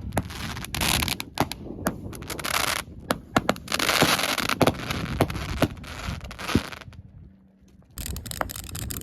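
A pile of consumer fireworks going off: steady hissing with many sharp pops and crackles in quick succession. It dies away almost to nothing about seven seconds in, then the crackling starts again.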